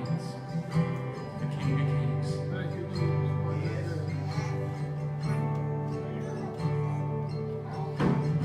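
Live church worship music with guitar.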